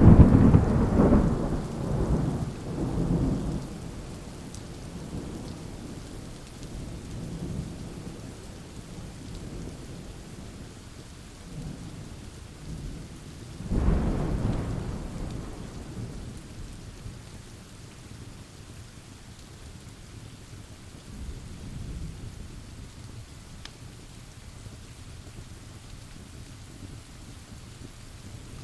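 Thunderstorm: steady rain pouring, with a loud thunderclap right at the start that rolls on in deep rumbles for several seconds, a second clap about halfway through that fades away, and fainter rolls of thunder in between and later.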